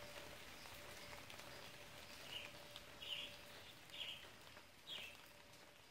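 Faint bird calls: four short chirps about a second apart, over a faint steady hum.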